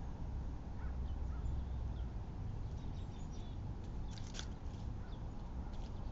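Short, high bird calls and chirps over a steady low background rumble, with a cluster of sharper calls about four seconds in.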